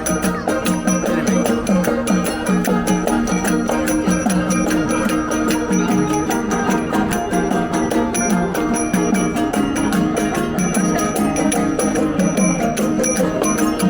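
Traditional folk music: fast, even percussion strokes and ringing small bells over a steady low drone.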